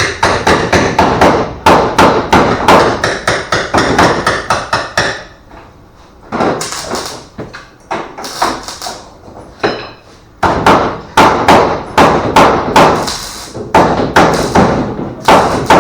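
Repeated hammer blows, about three to four a second, with a pause near the middle broken by a few single strikes, then steady hammering again.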